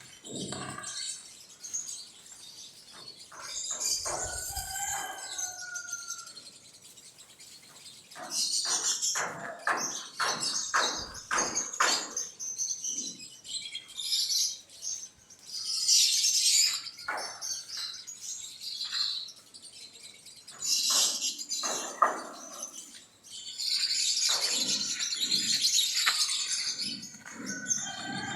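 Quail chirping repeatedly, mixed with clusters of sharp clicks and knocks.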